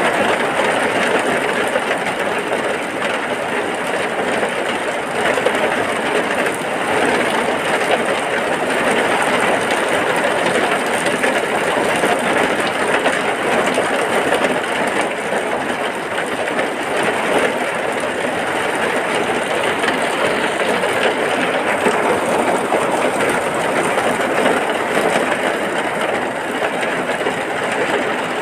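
Heavy rain falling steadily, an even, unbroken rush with no change in strength.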